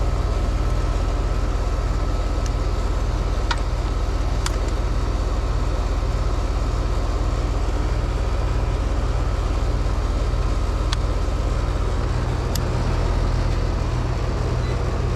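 Heat pump outdoor unit running steadily in heating mode, its compressor and condenser fan motor humming, with its reversing valve energised by a jumper on the control board. A few faint ticks sound over the hum.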